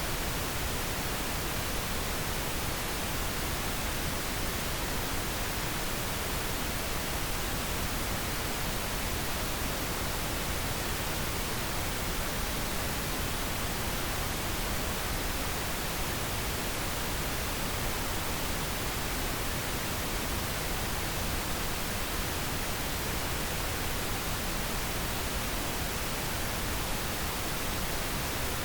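Steady synthetic pink noise: an even, unchanging hiss across the whole range, with no breaks or events.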